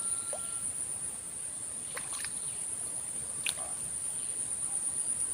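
Steady, high-pitched drone of insects, with a few short clicks about two and three and a half seconds in.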